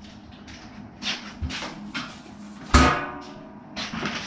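Plastic packaging around a bottle of rubbing alcohol being handled and cut open with kitchen scissors: a run of rustles and clicks, with one sharp snap nearly three seconds in as the loudest sound.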